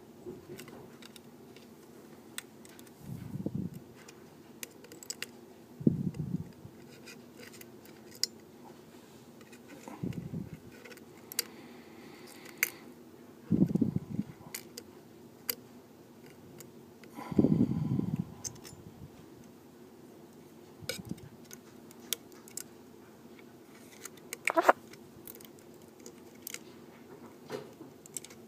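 Small metal repair tools clicking and ticking against an iPhone 4S's internal parts during disassembly, with a few short dull thumps of handling on the work surface.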